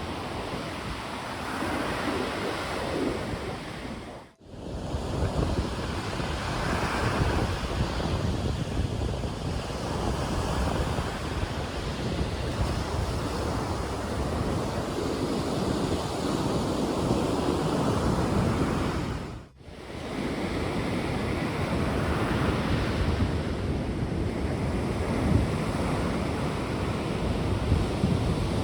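Sea surf washing onto the beach, with wind buffeting the microphone. The sound cuts out for an instant twice.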